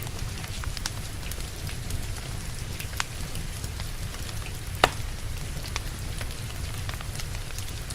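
Wood fire crackling with scattered small pops and one loud pop a little before the middle, over a steady patter of rain and a low rumble.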